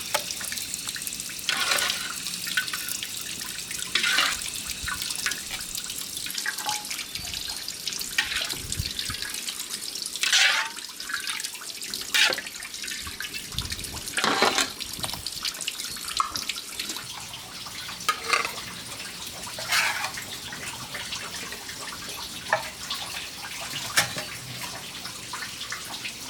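Water running steadily, as from a tap, with irregular splashes every second or two.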